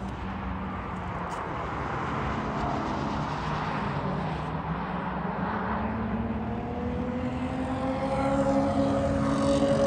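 Sports car engine running on a race track over tyre and road noise. Its pitch climbs steadily through the second half as it gathers speed.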